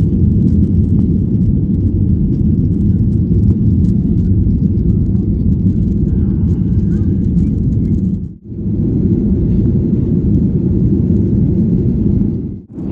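Steady low rumble of a Boeing 737-800 airliner heard from inside the passenger cabin, its CFM56 engines and airflow making a dense low roar. The sound drops out abruptly twice, about eight seconds in and again near the end.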